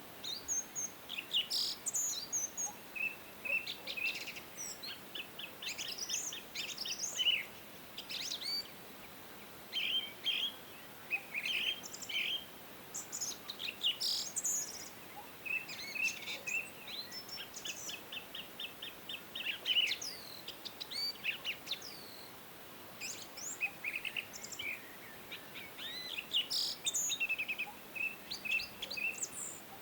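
Several songbirds singing and chirping, with quick trills and fast runs of repeated notes overlapping one another, over a faint steady background hiss.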